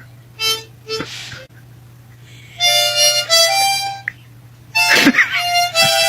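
A sleeping dog's nose whistling as it breathes: two short sniffs, then two long reedy, harmonica-like squeals on the breaths.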